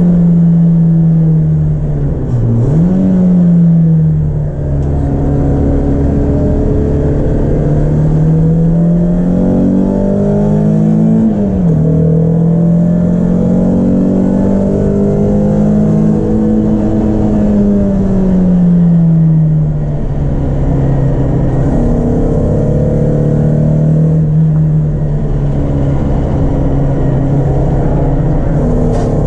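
Peugeot 306 S16's 2.0-litre 16-valve four-cylinder engine, driven hard on a race circuit. Its note rises and falls with the revs, with sharp drops about two and a half seconds in and again around eleven seconds.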